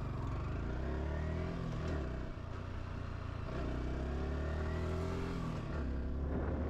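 Yamaha R125's single-cylinder 125 cc four-stroke engine accelerating up through the gears. Its pitch climbs steadily, then drops at a gear change about two seconds in and again near the end.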